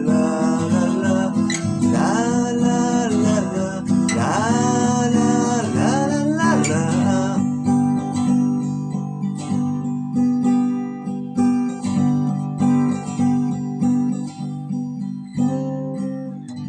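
Acoustic guitar strummed and picked through the song's closing bars. A bending melody line rides over the chords for the first few seconds, and after that the guitar plays alone. Near the end the final chords start to die away.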